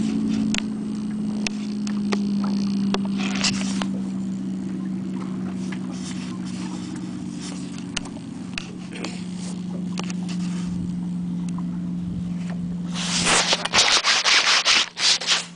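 Big-block V8 boat engine running at speed, its steady drone sinking slowly in pitch as it eases off. Near the end there are loud, choppy rushing bursts for about two seconds.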